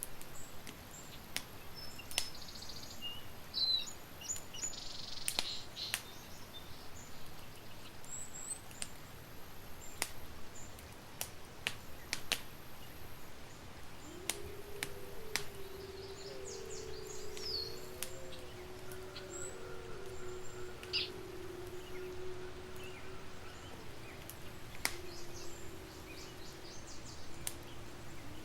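Campfire crackling with scattered sharp pops, while small birds chirp in the background. About halfway through, a low, steady drone with a slightly wavering pitch comes in and holds.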